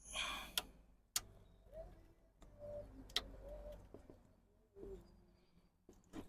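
Hands working a rubber drive belt back onto the pulleys of an engine: a short rustle, then sharp clicks and knocks at intervals, with faint short wavering tones in between.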